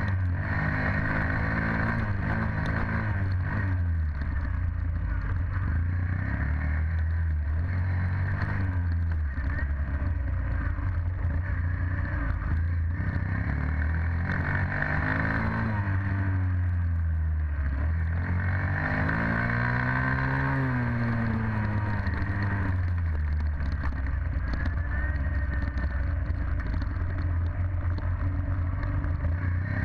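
Dirt bike engine running as it is ridden, its pitch rising and falling over and over as the throttle is opened and closed.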